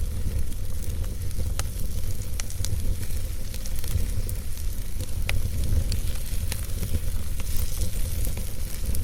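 Wood logs burning in a fireplace: a steady low rumble of flame and a soft hiss, broken by scattered sharp crackles and pops from the wood.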